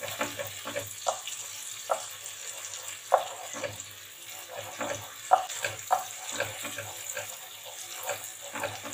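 Chopped peppers and tomato paste sizzling in butter in a pot while a wooden spoon stirs and scrapes across the bottom, with irregular knocks of the spoon against the pot, the loudest a few seconds in.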